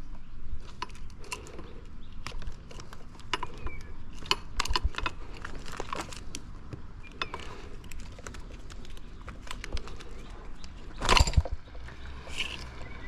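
Scattered clicks, clinks and knocks of metal hand tools and motorcycle parts being handled, with one louder clatter about eleven seconds in.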